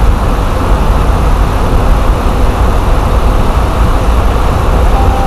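Diesel semi-truck engine idling: a loud, steady low rumble.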